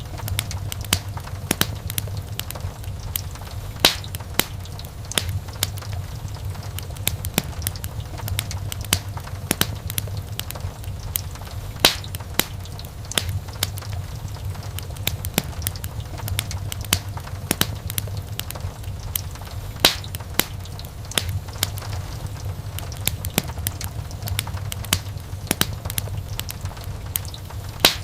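Wood fire in a fireplace crackling, with many sharp pops and snaps over a low, steady rumble of burning. A few louder pops stand out now and then.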